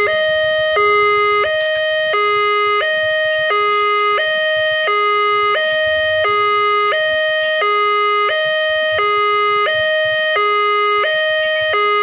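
Railway level-crossing warning alarm sounding a loud, steady two-tone electronic signal that alternates between a low and a higher tone about every 0.7 seconds, warning that a train is approaching.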